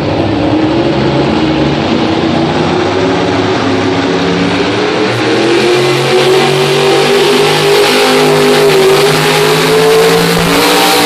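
Pulling truck's engine running hard at high revs under load as it drags the weight sled. Its pitch climbs slowly and it gets louder about six seconds in.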